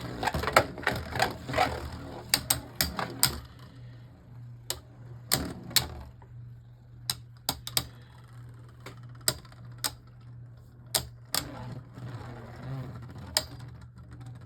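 Two Beyblade Burst spinning tops battling in a plastic stadium: rapid clacking collisions for the first few seconds, then single sharp knocks every second or so as they circle, over a steady low hum. The match ends in a survivor finish, one top outspinning the other.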